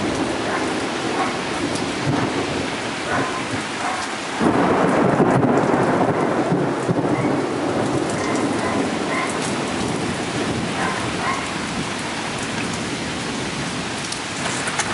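Heavy thunderstorm rain pouring steadily, with thunder rumbling. The sound swells louder about four seconds in.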